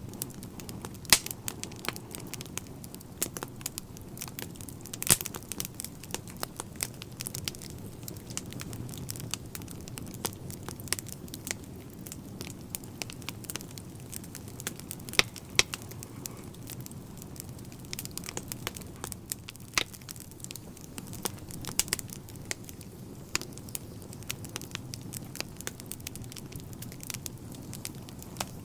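Wood fire burning in a fireplace, with frequent irregular sharp crackles and pops over a steady low rumble of flames.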